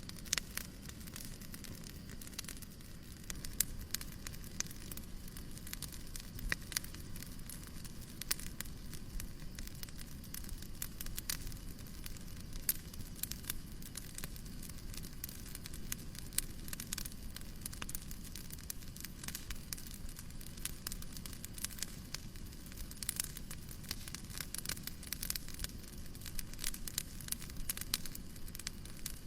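Fireplace crackling: a steady run of small sharp pops and snaps over a low, even hiss.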